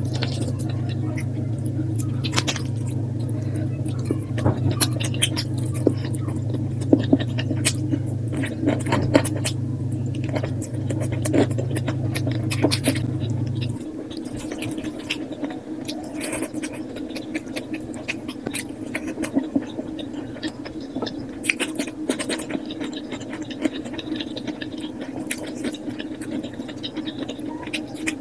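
Eating sounds played at double speed: rapid chewing, mouth smacks and small clicks of food being eaten. A steady low hum sits underneath and cuts off about halfway through.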